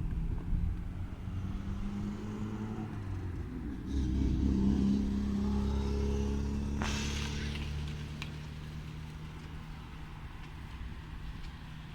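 A motor running with a steady low hum that shifts in pitch, growing louder about four seconds in and then slowly fading.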